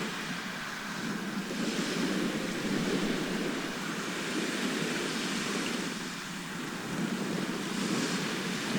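Sea waves washing onto a shore: a steady rush that swells and eases every few seconds.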